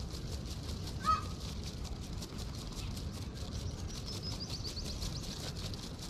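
A single short bird call about a second in, the loudest sound, followed near the end by a quick run of high chirps, over a steady fast pulsing high hiss and a low rumble.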